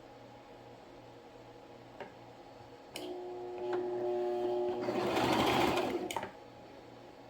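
Electric sewing machine stitching in one run of about three seconds. It starts with a steady motor whine, gets louder and busier partway through, then stops abruptly.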